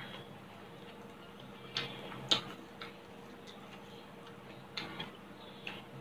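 Close-miked chewing of a hand-fed mouthful of food, with a few irregular sharp wet mouth clicks, the loudest a little over two seconds in. A faint steady hum runs underneath.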